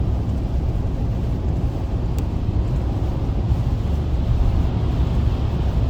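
Steady low rumble of a car's engine and road noise heard from inside the cabin while driving on a highway.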